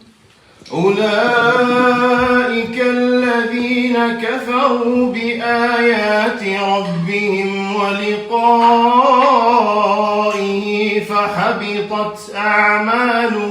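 A male voice chanting Quranic recitation in a melodic, drawn-out style, holding long notes with ornamented turns in pitch. It begins after a short pause, under a second in.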